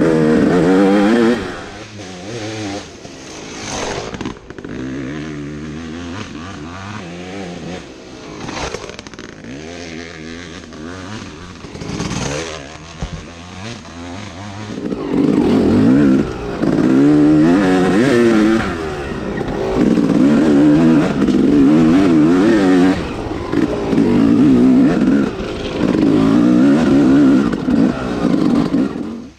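Yamaha YZ dirt bike engine revving up and down under riding, its pitch rising and falling again and again. It is loud briefly at the start, fainter through the middle, and loud again from about halfway on, cutting off suddenly at the end.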